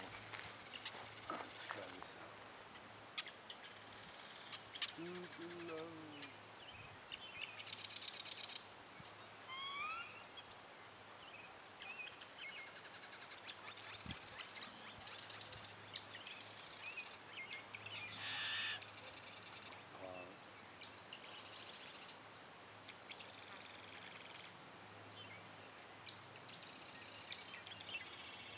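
Small birds singing in the reeds: short high-pitched phrases repeating every second or two, with a few rising whistled notes about ten seconds in, over a steady low hum.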